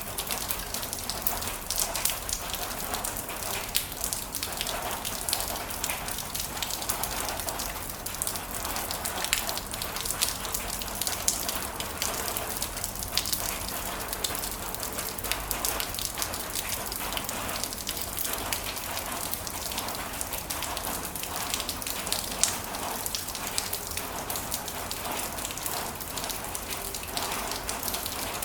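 Heavy rain falling steadily, a dense hiss full of fine, sharp drop ticks.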